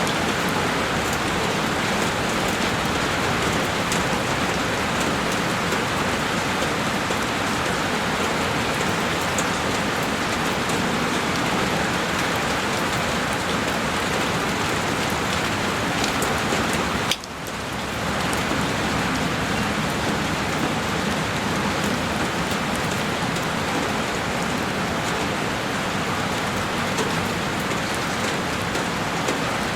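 Heavy rain falling on a window: a steady, dense hiss with scattered drop ticks. A little over halfway through, the sound briefly drops away and comes straight back.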